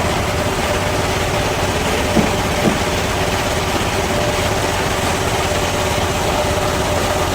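Band sawmill machinery running with a steady hum, with two brief knocks a little over two seconds in.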